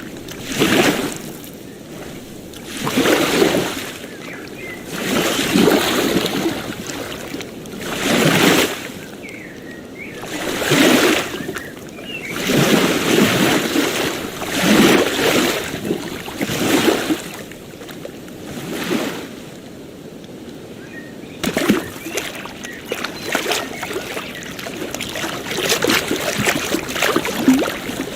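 Small waves breaking and washing on a beach, surging about every two to three seconds. In the last third the wash turns choppier, with many short splashes.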